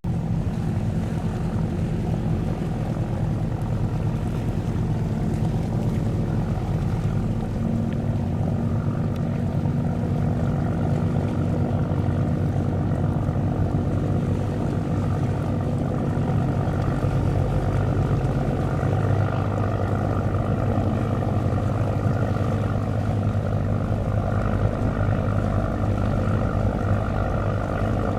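Boat diesel engines running steadily, a fast passenger ferry close by; the low engine note grows stronger about two-thirds of the way through.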